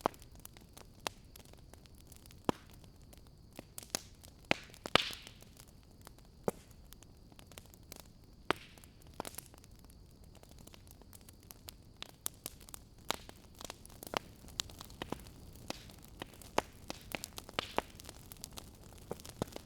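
Wood fire crackling in a fireplace: irregular sharp pops and snaps over a soft steady hiss. The loudest pop comes about five seconds in, with a brief hiss after it.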